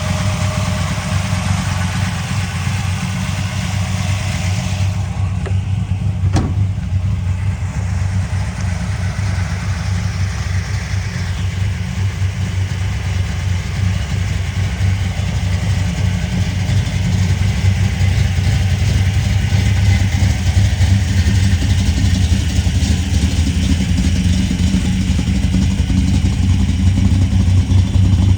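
1970 Oldsmobile 442's V8 engine idling steadily with a deep, even beat, growing slightly louder toward the end. A single sharp click about six seconds in.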